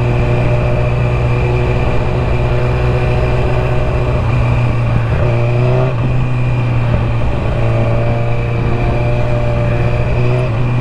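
Motorcycle engine running under way, heard with wind rumble on the rider's microphone; the engine note climbs about five seconds in as it accelerates, then settles to a steady pitch again.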